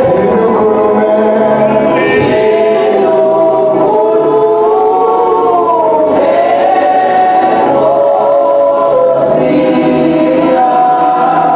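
A choir singing gospel music, many voices holding long, sustained notes that glide slowly from one pitch to the next.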